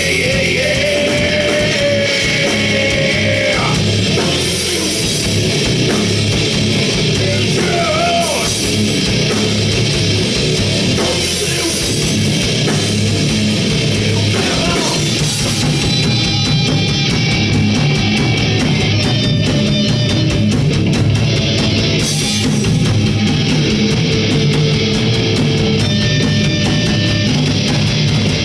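Heavy metal band playing loud and without a break, with electric guitars and a drum kit.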